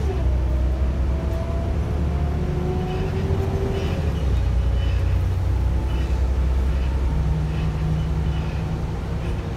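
Volvo B7RLE single-deck bus heard from inside while driving: a heavy diesel drone with a whine that drops sharply at the start, then climbs in pitch for about four seconds before breaking off. Small clicks and rattles from the worn body and chassis sound through it.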